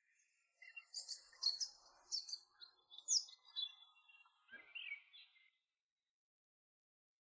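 Songbirds chirping, a run of short high calls with quick pitch slides, which stops abruptly about five and a half seconds in.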